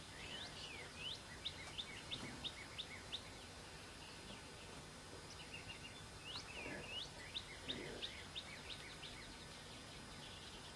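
A songbird singing quick series of short rising whistled notes, about four a second, in two bouts, the second starting about six and a half seconds in, over a faint steady hiss.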